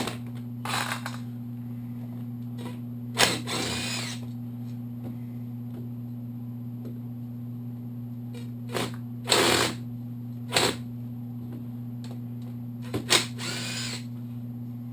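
Small impact gun in short runs, about six in all, spinning bolts out of a Kawasaki KLR650 engine case, some runs opening with a sharp clack. A steady electrical hum lies underneath.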